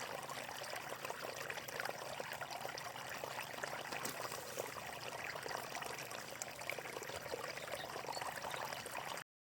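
Water flowing and splashing steadily, an even rushing with fine trickling detail, which cuts off abruptly near the end.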